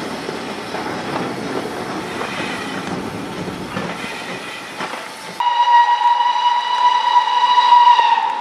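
Train running with rail noise. About five seconds in, after an abrupt change, a locomotive whistle sounds one steady high note for about three seconds, the loudest thing in the clip.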